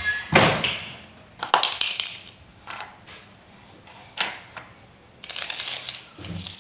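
Hard toys knocking and clattering as they are handled: a string of separate sharp knocks and clicks, with a short rattle about five seconds in.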